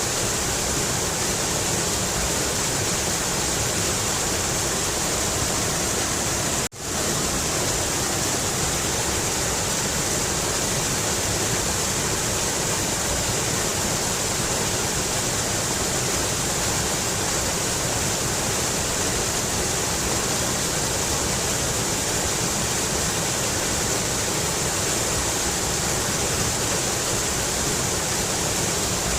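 Mountain river rushing in a steady, unbroken flow of water noise, cutting out for an instant about seven seconds in.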